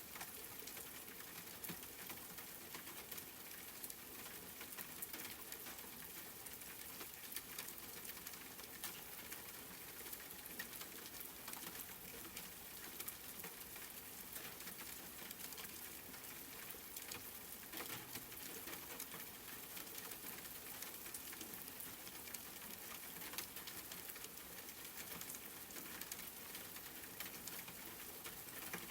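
Steady rain pattering, a constant hiss with many fine drop ticks.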